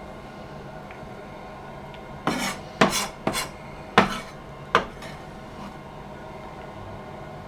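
Kitchen utensils clattering: about five sharp knocks and short scrapes in quick succession, like a knife against a chopping board and bowl while chopped vegetables are handled. A steady low hum runs underneath.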